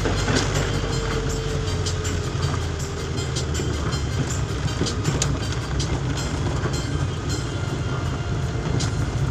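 Heavy rain: a steady hiss over a low rumble, with many scattered sharp ticks.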